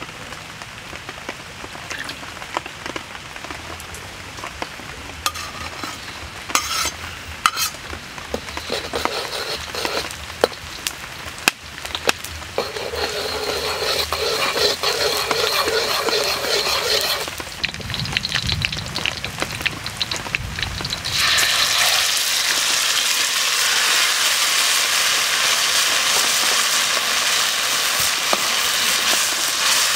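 Oil is poured into a hot black steel wok over a wood fire, then chopped aromatics fry and are stirred with a metal ladle. A little over 20 seconds in, cubed raw beef goes into the oil and a louder, steady sizzle takes over.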